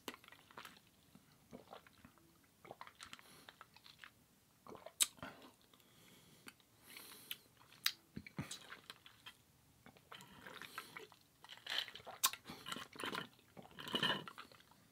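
A person chewing food, with a few sharp clicks spread through and denser chewing in the last few seconds.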